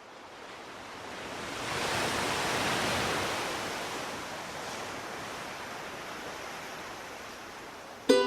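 A soft rush of noise, like wind or surf, swells for about two and a half seconds and then slowly fades. Right at the end a plucked string instrument starts the music.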